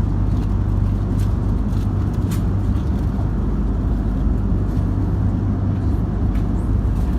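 Cabin noise inside a Hawaiian Airlines Airbus A330-200 in flight: a steady, deep rumble of engines and airflow, with a few faint ticks.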